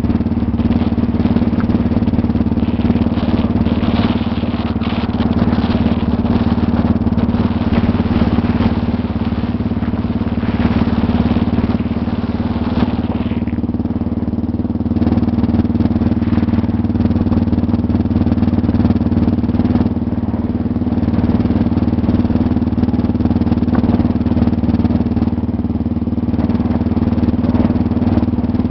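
Motorcycle engine running steadily while riding a dirt road, with road and wind noise that swells and fades every few seconds.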